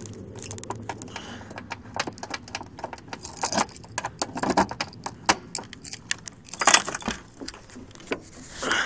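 Keys jangling and clicking as a key is worked in the trunk lock of a Mitsubishi Eclipse that is hard to open, with a few louder knocks from the lock and lid.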